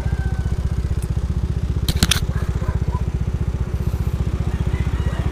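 Motorcycle engine running with a steady, even low putter, and a quick cluster of sharp clicks about two seconds in.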